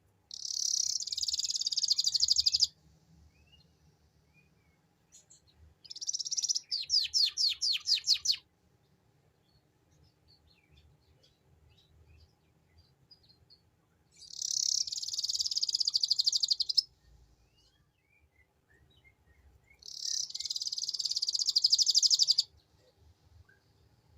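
Domestic canary singing its 'ngeriwik' song: four rapid, buzzing high trills of about two and a half seconds each, separated by pauses. The second trill breaks partway into a slower run of distinct notes.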